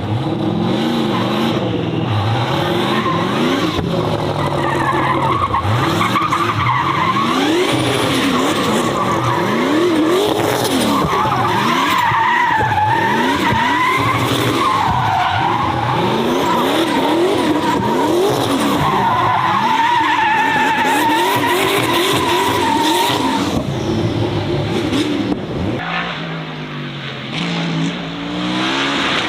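A performance car's engine revving up and dropping back again and again while its tyres squeal in a long, wavering squeal, the sound of a car being driven sideways. Near the end the squeal stops and the engine settles to a steadier, lower note.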